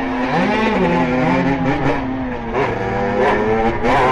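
Small two-stroke motorcycle engine, a Beta RR 50 fitted with a 70cc Airsal kit and an SCR Corse expansion-chamber exhaust, revving up and down under way, its pitch rising and dropping several times as the throttle opens and closes.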